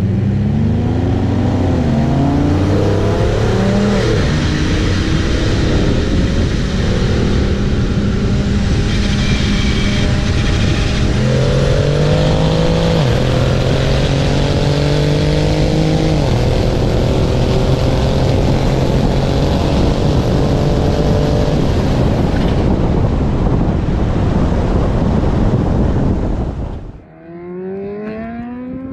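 Single-turbo BMW 135i's N54 straight-six at full throttle in a roll race from 60 mph, with heavy wind and road noise. The engine pitch climbs and then steps down at several gear changes. Near the end the throttle closes and the noise drops away sharply.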